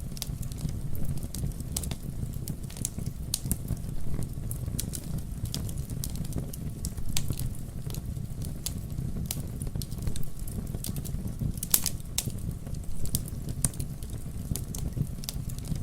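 Wood fire burning with a steady low rumble of flames and irregular sharp crackles and pops, one louder snap near the end.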